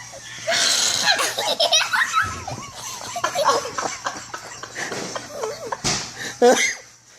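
Young children imitating bird calls with their voices: many short, high squeaky chirps that rise and fall, mixed with giggling and laughter, with one louder burst near the end.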